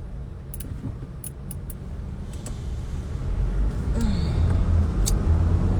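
Car cabin rumble of engine and road noise, growing louder from about halfway through as the car gets under way, with a few light clicks near the start.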